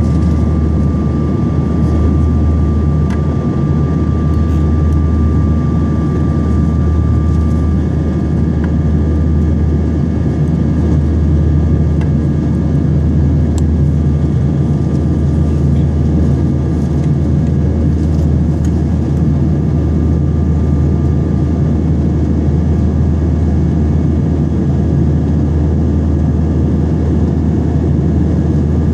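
Airbus A320 jet engines and rushing air, a loud steady rumble. A thin steady high tone sits on top and stops about eight seconds in.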